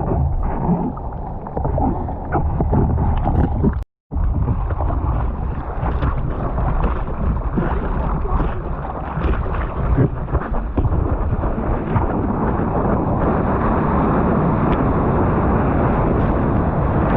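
Steady noise of wind and churning water on a GoPro's microphone in the surf, cutting out briefly about four seconds in.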